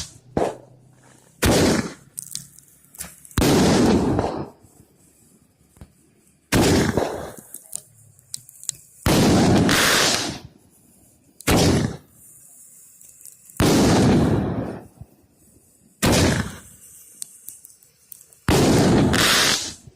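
Fireworks going off: about eight loud blasts, one every two to three seconds, each bang fading out over about a second, with faint crackling between them.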